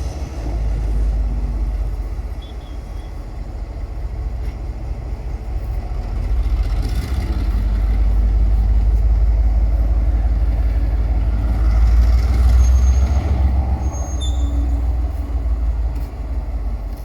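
Diesel locomotive running with a low rumble that swells louder from about six seconds in and eases near the end, as the Class M2d locomotive tows another loco.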